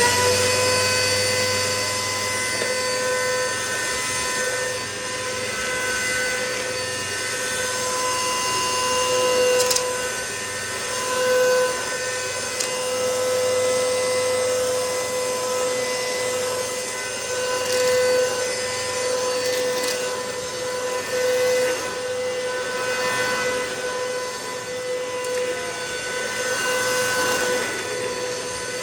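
Hoover MaxLife Total Home Pet upright vacuum cleaner running steadily, its motor whine holding one pitch, with the level swelling briefly a few times.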